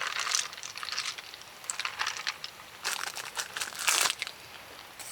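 Crinkling and rustling in several irregular bursts, the loudest about four seconds in.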